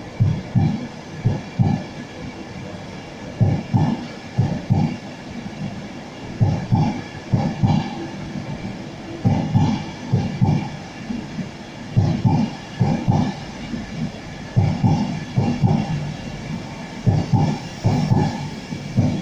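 A departing Class 91-hauled passenger train's wheels clattering over rail joints. Clusters of beats recur about every three seconds as each vehicle's bogies pass, coming slowly closer together as the train gathers speed.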